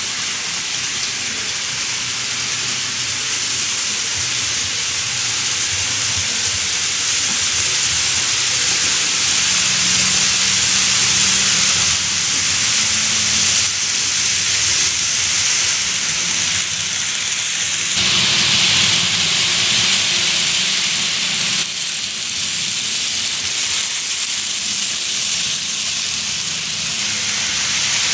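N gauge model train of a 20-series sleeper running on layout track: a steady rolling hiss of small wheels on rail with a faint low motor hum, changing in character twice partway through.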